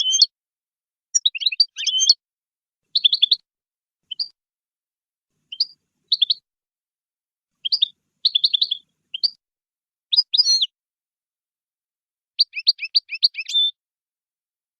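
European goldfinch singing an Oudani-style song: short bursts of quick, high twittering and trilled notes, each phrase under a second, broken by brief pauses about nine times.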